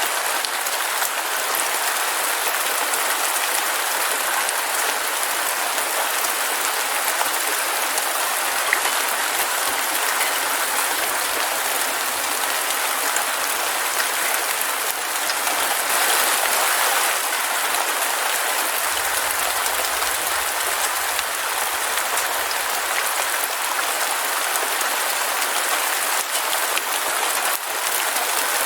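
Heavy rain falling steadily, a dense, even hiss with no break in it.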